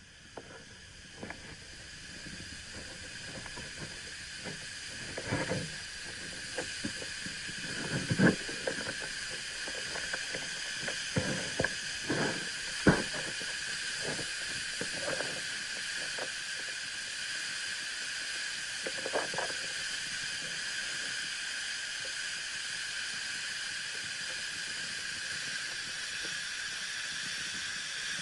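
Steady rushing of the Tamasudare waterfall, still flowing and not fully frozen. It grows louder over the first few seconds. Scattered soft knocks come through the first twenty seconds, the sharpest about thirteen seconds in.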